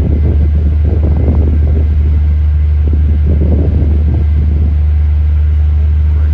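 Ferry's engine running with a steady, loud low drone.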